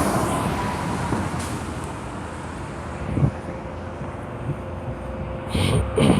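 Road traffic noise: a vehicle going by, loudest at first and easing off, with a short louder noise near the end.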